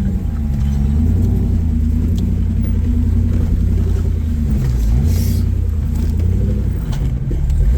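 Off-road vehicle's engine running under load while crawling over rocks, its speed dipping and picking back up a couple of times. A brief hiss about five seconds in.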